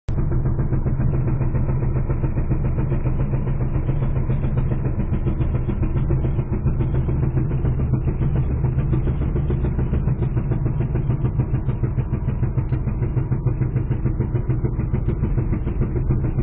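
A vehicle engine running steadily, a low continuous rumble with a fast flutter.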